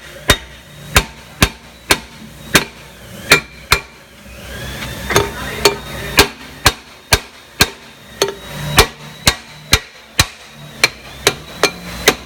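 Steady hammer blows, about two a second, on the rear brake drum of a Chevrolet Spark van to free the drum from the hub. A faint metallic ringing hangs under the later strikes.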